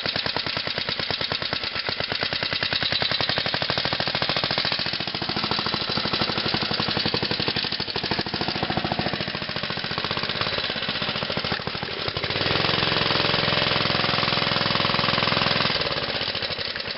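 Mid-1970s Montgomery Ward mini bike's small engine running with a rapid, even chugging pulse, just started after sitting two years. About twelve seconds in it is revved up and held higher, then drops back near the end.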